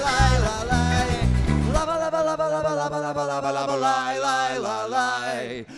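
Live band music: a rhythmic bass-and-drum groove drops out about two seconds in, leaving held guitar and melody notes, with a brief break just before the end.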